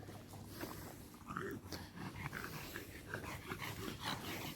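A dog making faint short noises close by, with scattered light clicks in between.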